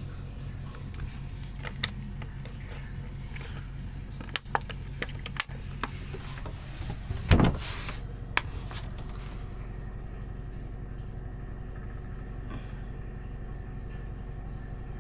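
Steady low drone of a ship's engine running, with a scatter of sharp clicks and knocks from handling in the middle and a short louder burst of noise about seven seconds in.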